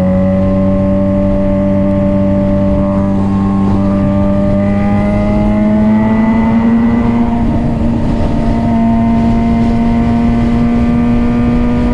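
Suzuki GSX-R600 inline-four engine running steadily at cruising speed under a rush of wind, its pitch rising gently over the first several seconds as the bike speeds up a little, then holding steady.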